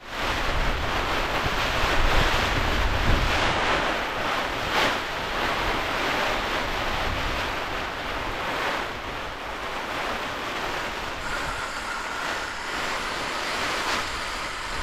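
Strong wind blowing across the camera's microphone: a steady rush with low buffeting rumble, loudest in the first few seconds.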